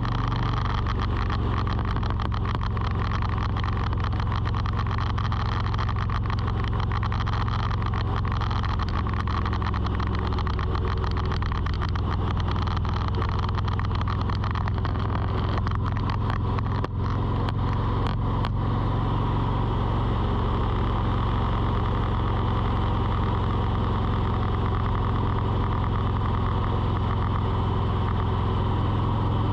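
A steady low engine hum, like a vehicle running, with many small ticks scattered over it until a little past halfway.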